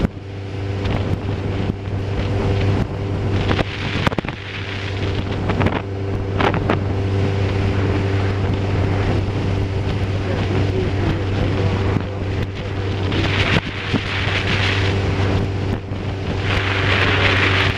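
An engine running steadily with a constant low drone, while wind noise hisses over the microphone and gusts loudly twice in the second half.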